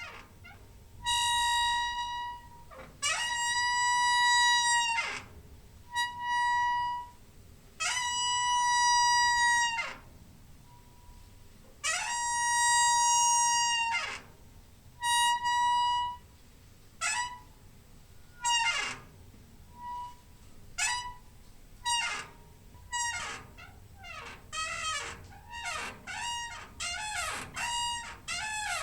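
Door hinge squeaking as the door swings, a high squeal with a steady pitch. Several long squeaks of one to two seconds each trail off in a falling glide. Past the halfway point they turn into shorter squeaks that come quicker and closer together.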